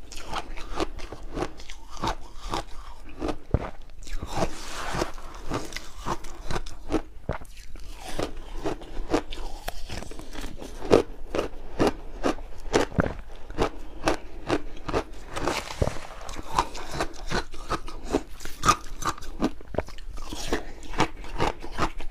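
Crunching and chewing of refrozen shaved ice chunks at close range: a dense run of sharp, irregular cracks and crackles, several each second.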